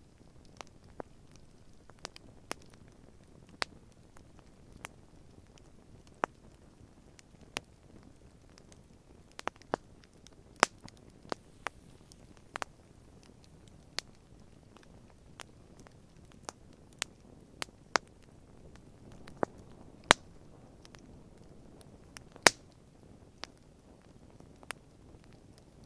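Wood campfire crackling, with irregular sharp pops and snaps of burning wood about once a second, some much louder than others, over a faint low background noise.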